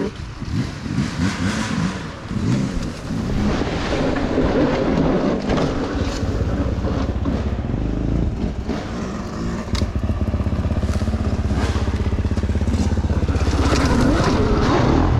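Dirt bike engine revving up and down at low speed on a trail, settling into a steadier low chug about ten seconds in.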